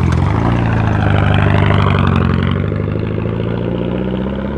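Lancia Delta rally car's turbocharged four-cylinder engine running loud and steady, easing off a little and losing its higher tones toward the end.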